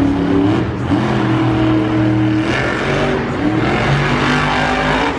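Monster truck engine running loud and revving, its pitch rising and falling repeatedly, over a broad roar of background noise.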